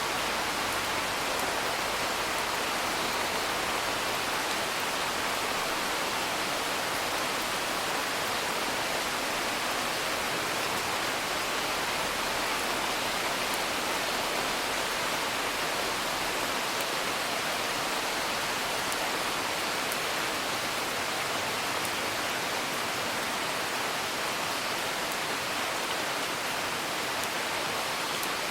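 Steady rain, an even hiss with no letup, with a few faint crackles from a wood fire.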